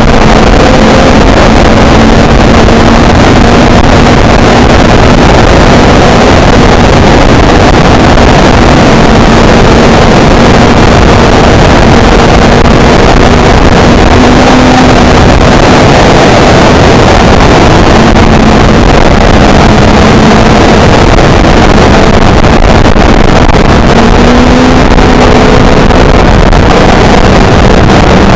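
Motorcycle engine running at a steady cruising pitch, with only small rises and dips, under heavy wind noise on the camera microphone.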